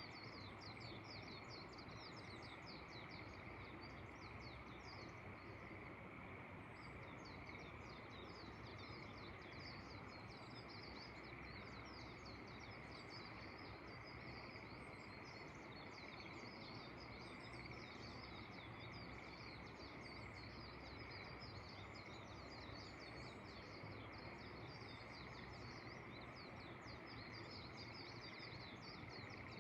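Rice-terrace nature ambience: a dense, unbroken chorus of short, quick high chirps from birds and frogs over a steady lower calling band, with a faint even hiss of wind beneath.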